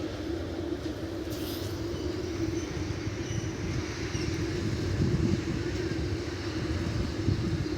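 Passing train: a steady low rumble with a constant hum over it, a little louder about five seconds in.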